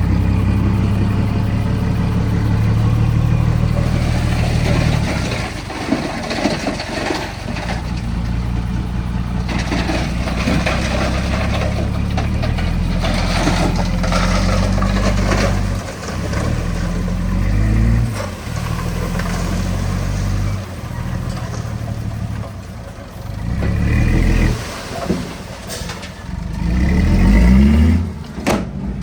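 Heavy diesel engine of earthmoving machinery running under load, its pitch and level shifting abruptly several times, with scattered clatter and a rev climbing near the end.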